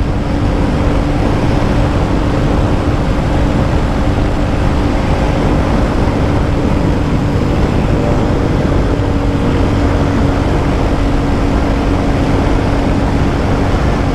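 Royal Enfield Classic 350's single-cylinder engine held at full throttle at its top speed of about 130 km/h: a steady engine note under heavy wind rush on the microphone. The bike is no longer gaining speed, topped out at what the rider takes for a 130 km/h limiter.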